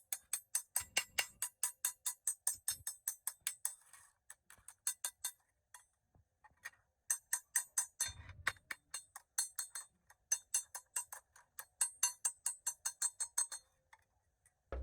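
Rapid, even tapping or clicking, about five sharp strikes a second, with two short pauses and a couple of dull low thumps among the strikes.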